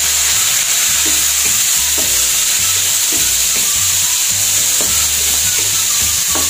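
Chopped tomatoes, onion, garlic and ginger sizzling in hot oil in a non-stick wok, stirred with a wooden spatula. The sizzle is a steady hiss, and the spatula scrapes and knocks against the pan about once a second.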